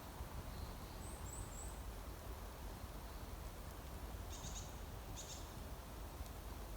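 Small wild songbirds calling: three quick, high, falling chirps about a second in, then two short calls around four and five seconds in, over a steady low background hiss.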